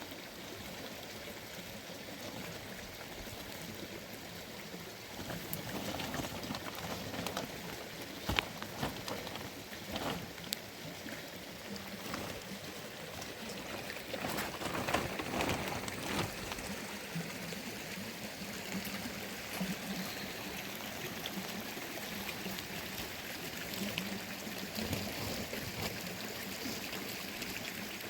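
Steady rush of running water, with scattered clicks and knocks, a few louder ones near the middle.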